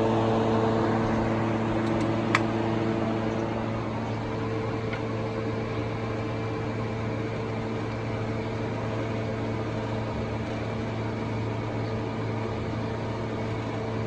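Toyota Premio's 1ZZ inline-four petrol engine running steadily at idle, a slightly louder hum for the first couple of seconds. A single sharp click about two seconds in.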